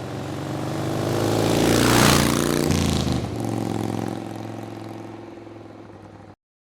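A motor vehicle's engine passing close by: it grows louder to a peak about two seconds in, drops in pitch as it goes past, then fades away before cutting off suddenly near the end.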